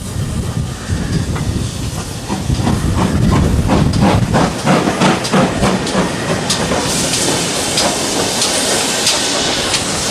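A train passing, its wheels clacking over rail joints in a run of sharp clicks that come faster, then a steady high hiss near the end.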